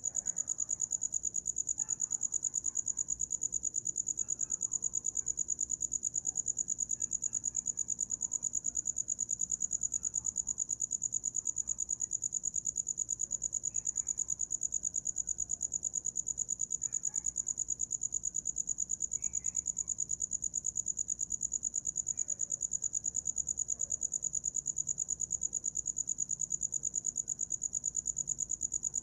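A cricket chirping: one high note pulsed rapidly and evenly without a break.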